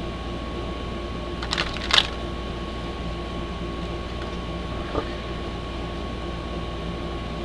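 A steady mechanical hum with a constant tone. A few short clicks come about one and a half to two seconds in, and a fainter one near five seconds.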